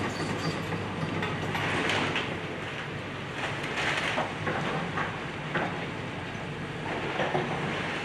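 Excavator's diesel engine running steadily while it demolishes a house, with repeated bursts of crunching and scraping debris every second or two.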